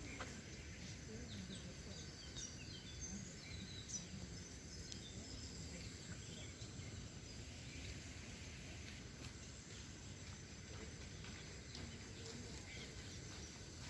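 Faint outdoor ambience: a steady low rumble with scattered bird chirps, most of them a few seconds in.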